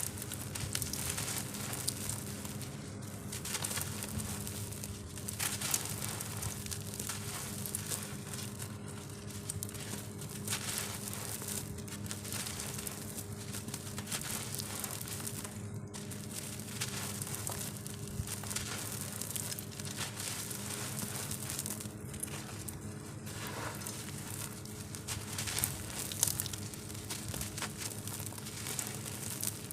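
Dry, dusty molded shapes being crushed and crumbled, a continuous crunching and crackling with a few short pauses.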